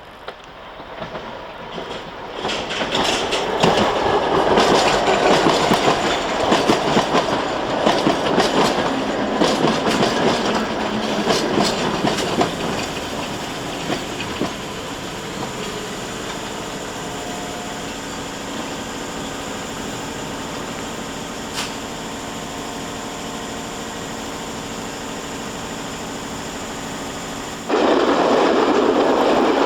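A train running past on the railway, its wheels clattering over the rail joints. After about fifteen seconds this settles into a quieter, steady hum. Near the end the sound jumps abruptly to a louder noise.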